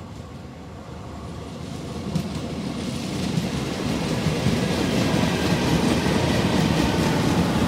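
Taiwan Railway EMU900 electric multiple unit pulling into the station and running past close by: its wheel and running noise grows steadily louder over about five seconds, then holds as the carriages go by, with a few sharp clicks along the way.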